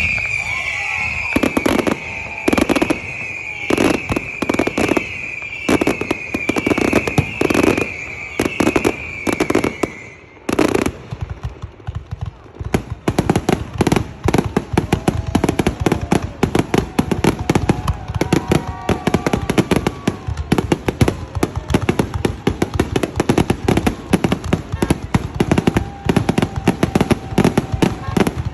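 Italian fireworks display: shells bursting with loud bangs about once a second for the first ten seconds, over a repeating high wavering whistle. From about twelve seconds in, a dense, rapid string of bangs and crackles follows.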